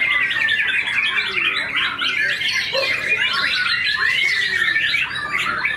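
White-rumped shamas (murai batu) singing loudly and without pause: a dense, fast stream of chirps, trills and gliding whistles.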